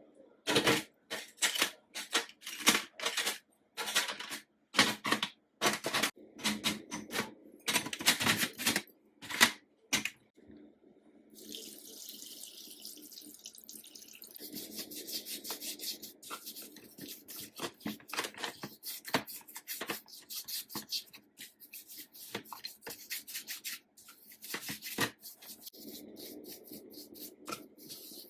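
Sewing machine parts being cleaned: about ten seconds of short, sharp scraping and knocking strokes, then a steady hiss of running water from a tap, with small clicks and rubbing as the parts are washed.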